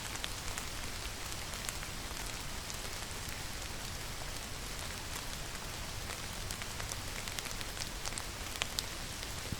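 Steady rain falling, with individual drops ticking sharply through the even hiss, and a couple of louder drop hits near the end.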